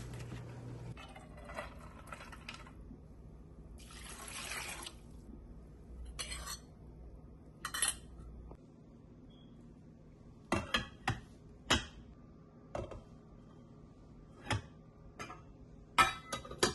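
Kitchen dishes and utensils being handled: a short wash of running water, then a string of sharp clinks and knocks of dishware and cutlery, most of them in the second half.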